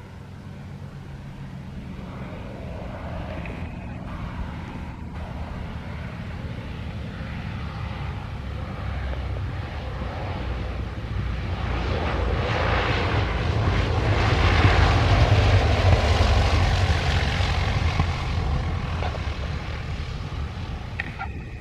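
Fixed-wing airplane passing by: its engine noise builds steadily to a peak about fifteen seconds in, then fades away, over a continuous low rumble.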